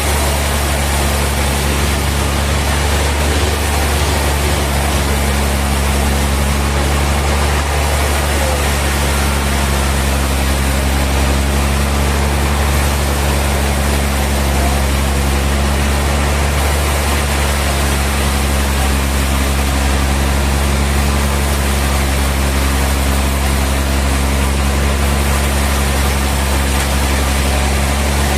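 Sawmill machinery running steadily: a loud, even low hum with a constant hiss over it, unchanging throughout.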